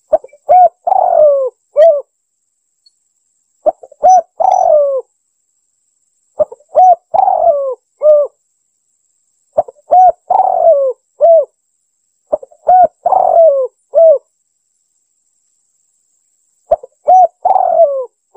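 Spotted dove cooing, repeating the same phrase six times at about three-second intervals: two short coos, a longer coo that falls in pitch, then a final short coo. It is the dove's call used as a recorded lure (pikat) for trapping tekukur.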